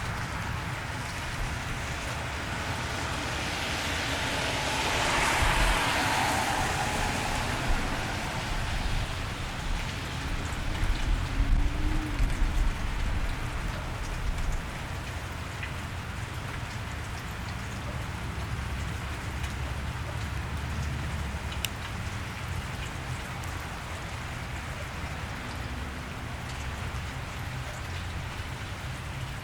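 Steady cold rain falling on a wet street. About five seconds in, a vehicle passes on the wet road, its tyre hiss swelling and fading, and a low rumble comes through around eleven to thirteen seconds.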